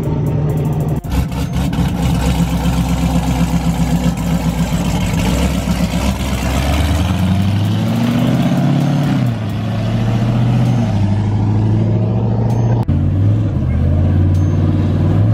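Dodge Challenger Hellcat's supercharged V8 rumbling as it rolls past, then revving as it pulls away, the pitch rising and falling a few times with the throttle.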